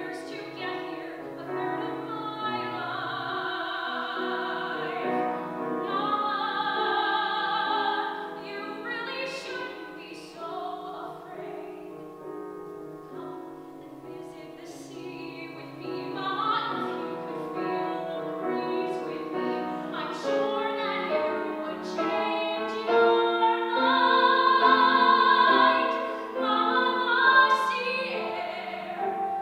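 Musical theatre song: a singing voice holding long notes with vibrato over piano accompaniment.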